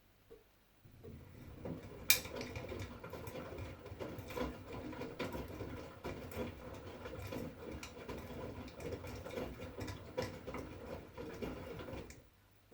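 2011 V-Zug Unimatic SL washing machine's drum turning during a 40°C wash, the laundry and water tumbling with a steady rumble and many small clicks. It starts about a second in and stops just before the end, as the drum pauses between turns.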